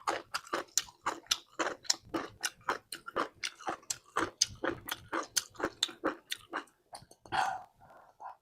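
Someone chewing crunchy food close to the microphone, a quick run of crisp crunches about four a second, with one longer, louder rustle near the end.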